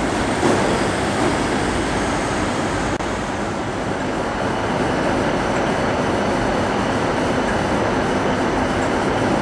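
Steady train noise under a station roof. First a Class 156 Super Sprinter diesel unit pulls out; then, after a cut about three seconds in, a Class 314 electric multiple unit runs in.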